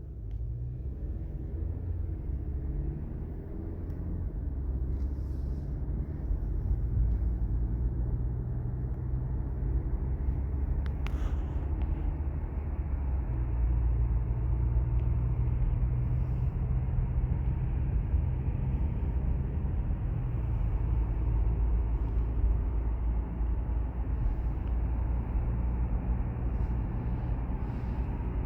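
Honda Civic Type R's turbocharged four-cylinder engine running as the car drives, a steady low rumble with road noise, the engine note shifting in pitch a few times.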